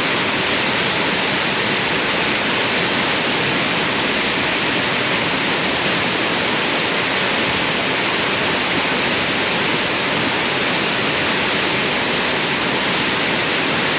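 Waterfall pouring: a loud, steady, unchanging rush of falling water.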